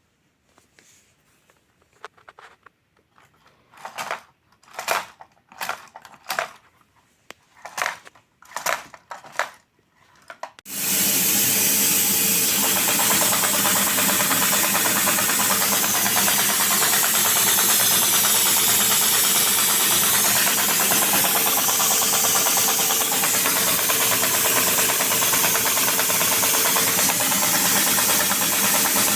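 LEGO vacuum-powered OHV engine model: several short separate swishing strokes, then about ten seconds in a loud steady rushing air noise with a steady hum starts suddenly and keeps running as the engine runs.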